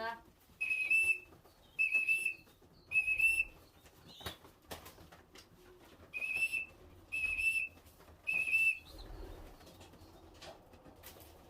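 Six short, steady whistle blasts in two sets of three: a pigeon fancier whistling to call young racing pigeons back into the loft.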